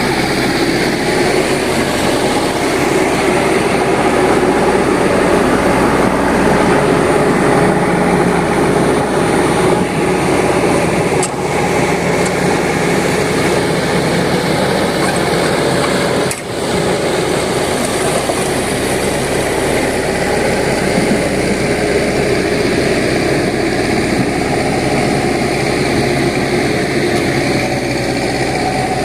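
Isuzu Elf NMR71 dump truck's diesel engine running steadily, dipping briefly twice.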